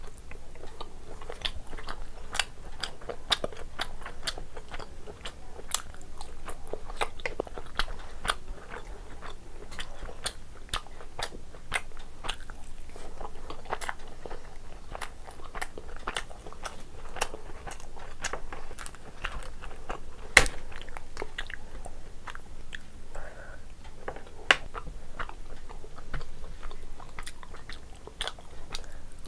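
A person chewing and biting into curry-soaked lobster meat, egg and rice: a steady run of irregular sharp mouth clicks, with one louder click about two-thirds of the way in.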